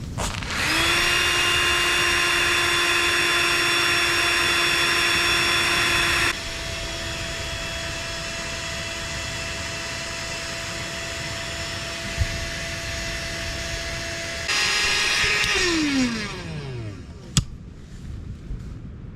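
A small electric motor appliance switching on and winding up to a steady whine. It runs on, dropping to a lower level a few seconds in and growing louder again near the end. It is then switched off and winds down with falling pitch, followed by a single sharp click.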